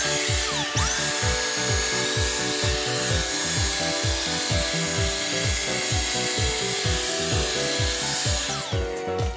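A small electric motor spins up with a high whine, runs steadily for about eight seconds and winds down near the end, over background music with a steady beat.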